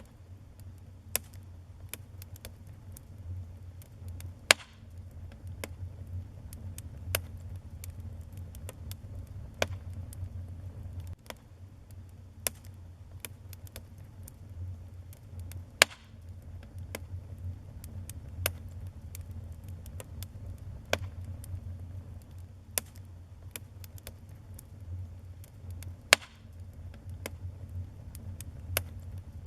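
Wood fire burning in a fireplace: irregular sharp crackles and pops over a steady low rumble, with louder pops about four seconds in, around the middle and near the end.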